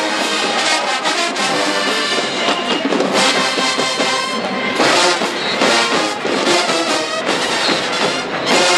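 Marching band brass section playing loudly, trombones and trumpets to the fore, with percussion hits, including strong accents about five seconds in and just before the end.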